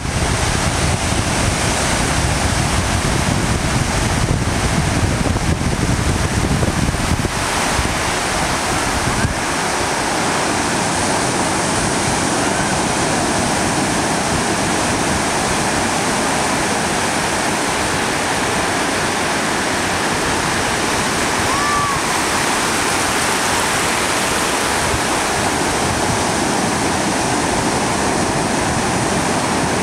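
Sea surf washing in a steady, loud rush of water noise, with a heavier low rumble during roughly the first seven seconds.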